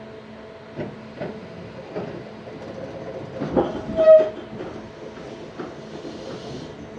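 Tobu 634-series train running, heard from inside the car: wheels click over rail joints a few times, with a louder knock about three and a half seconds in and a brief high tone just after it.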